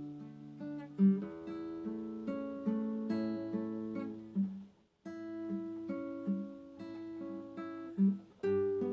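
Acoustic guitar played slowly, plucked notes and chords ringing over one another. The sound drops out briefly about halfway through, then the playing resumes.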